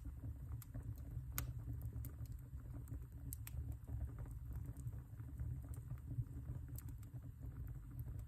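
Wood fire burning in a fireplace: a low steady rumble of the flames with irregular crackles and sharp pops from the burning logs, one louder pop about 1.5 seconds in and another at about 3.5 seconds.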